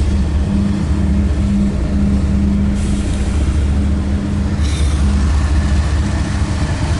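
CSX freight train's diesel locomotives running, a steady low drone, with a higher hiss of air from about three seconds in and a short burst of hiss near five seconds.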